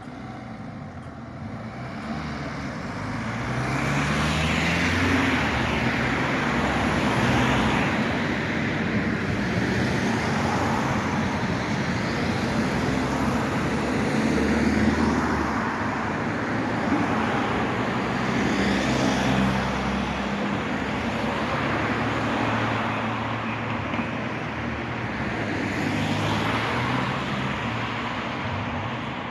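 A tram running close by: a steady rumble that swells over the first few seconds, with a low electric hum that changes pitch in steps.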